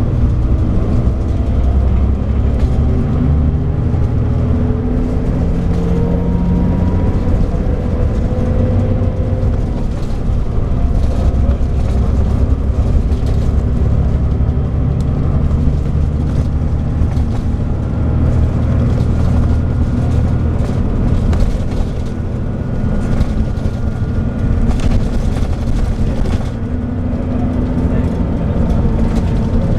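Scania DSC9 diesel engine of a Scania K340IB bus running under way, with road noise; its note rises for several seconds as it gathers speed a few seconds in.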